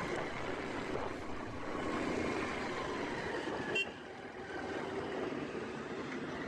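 Motorcycle engine running with road and wind noise while riding. A short horn beep sounds a little under 4 seconds in, after which the engine sound eases off slightly.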